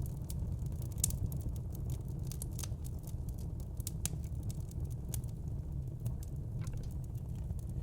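Wood fire in a fireplace crackling, with frequent irregular sharp snaps and pops over a steady low rumble of the flames.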